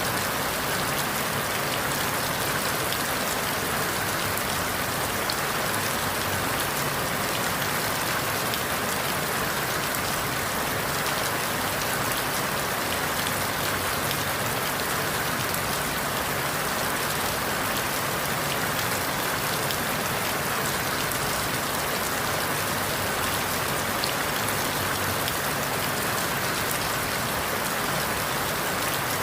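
Steady rain falling through forest leaves, an even hiss of countless drops with fine scattered drop ticks and no change in strength.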